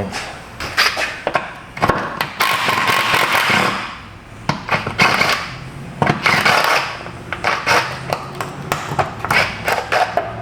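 Hand tools working on the fasteners of a car's rear A/C lines: scattered clicks and knocks, with a few rasping bursts about a second long, as of a ratchet undoing nuts and bolts.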